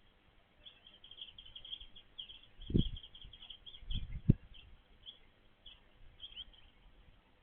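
A small bird chirping in a quick run of short, high notes, then in scattered single chirps. Dull low thumps come about three seconds in and twice around four seconds, and they are the loudest sounds.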